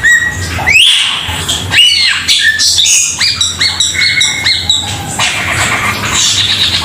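Cucak keling songbird singing loudly: a varied string of rising and falling whistled notes, a run of quick repeated notes in the middle, and harsher chattering calls near the end.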